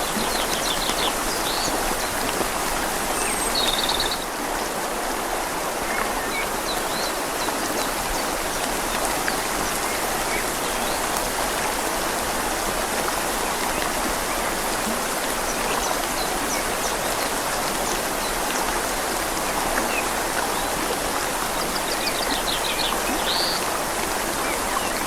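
Steady rain falling on leaves over a flowing river, an even dense hiss. A few short bird trills sound briefly, about half a second in, near four seconds, and again near the end.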